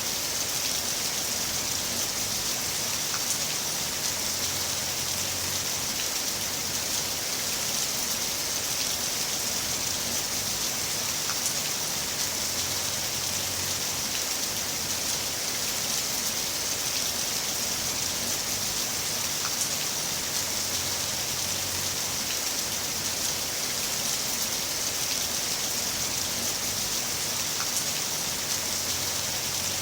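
Heavy rain falling in a steady hiss, with a faint low rumble coming and going underneath.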